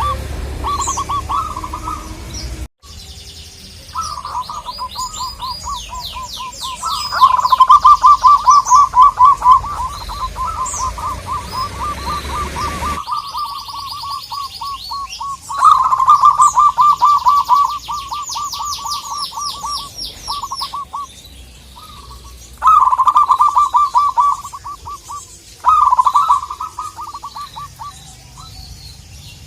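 Zebra doves singing: repeated bouts of rapid, staccato cooing notes, each bout running a few seconds before breaking off and starting again.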